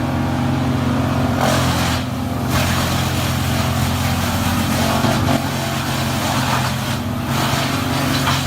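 Heavy forestry machine's engine running steadily under load, with a noisy grinding of wood being processed that swells and eases several times.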